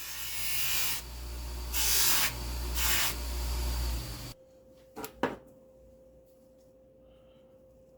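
A motor-driven tool runs with a steady low hum and loud hissing, surging twice, then stops suddenly about four seconds in. Two sharp clicks follow about a second later.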